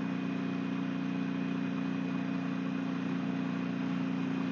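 Motorcycle engine running at a steady speed while riding, with a constant rushing noise over it, picked up by earbud microphones inside the rider's helmet.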